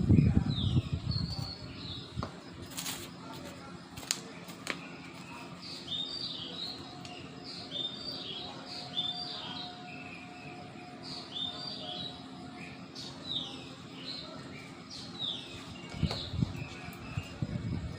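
Small birds chirping and singing, with short high notes and quick down-slurred calls repeated in phrases. A few sharp clicks come about three to five seconds in, and a low rumble, like wind on the microphone, fades out over the first second or two.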